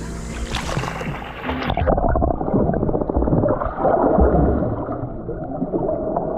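Splashing as a camera goes under seawater, then the muffled underwater sound of moving water, low rushing and gurgling with all the high sounds cut off from about two seconds in.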